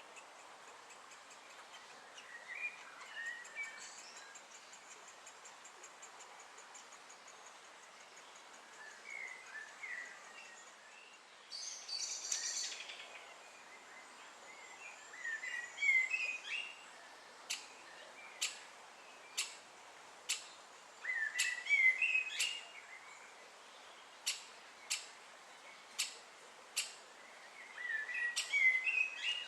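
Birds calling: scattered chirping phrases and, in the second half, a run of sharp single clicks about a second apart.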